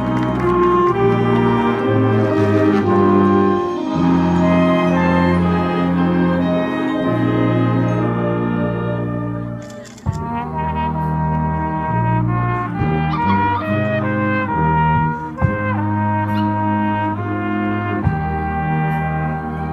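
Brass music, trumpets and trombones playing held chords; the music dips briefly about ten seconds in and carries on with shorter, more detached notes.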